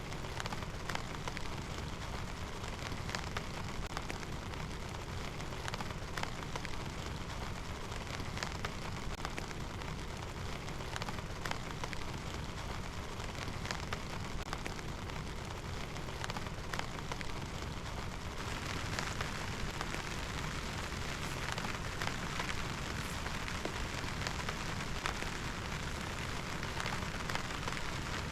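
Steady rain falling, with many separate drop hits; the rain noise grows stronger about two-thirds of the way through.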